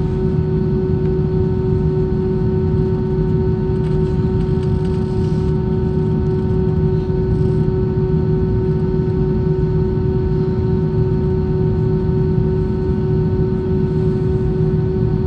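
Cabin noise inside an Airbus A320 in flight: a steady rush of engine and airflow noise with a constant droning hum.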